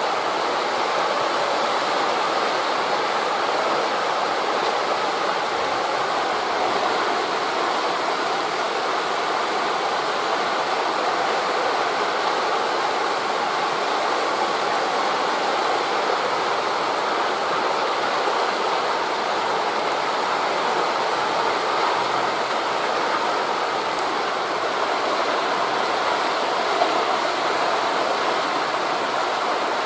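A steady, unbroken rush of wind through forest leaves blended with distant surf on a beach.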